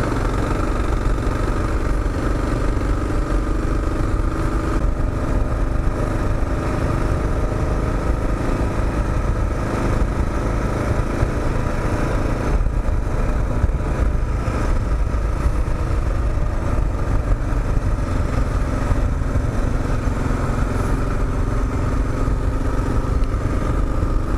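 Kawasaki KLR650 single-cylinder engine running steadily while the motorcycle is ridden, its pitch rising and falling gently with the throttle.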